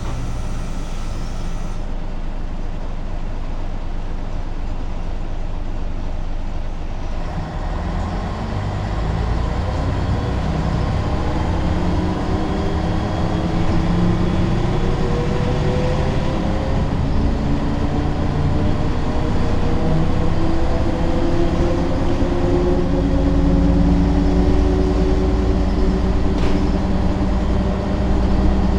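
Ikarus 280 articulated bus's diesel engine running steadily, then about seven seconds in growing louder as the bus pulls away. The engine note climbs in pitch in several long rising sweeps as it accelerates.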